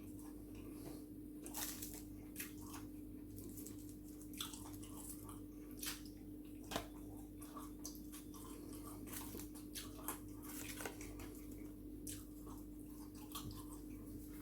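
Close-up eating sounds: a person chewing and biting crunchy fried food, with irregular crisp crunches and wet chewing clicks over a steady low hum.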